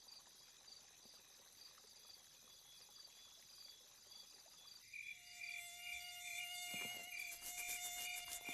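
Faint crickets chirping at night. About five seconds in, a mosquito's steady whining buzz comes in and grows louder.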